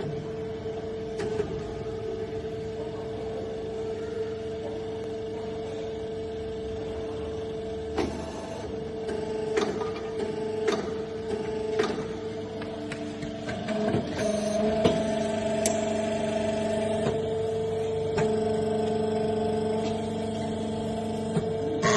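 Nissei HM7 desktop injection moulding machine running: a steady mechanical hum with a scatter of sharp clicks and knocks through the middle, the hum shifting in pitch about eight and again about fourteen seconds in.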